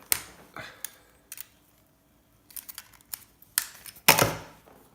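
Hand tools snipping and prying small parts off a scrap circuit board, a few sharp clicks and snaps, with a louder crunching scrape about four seconds in.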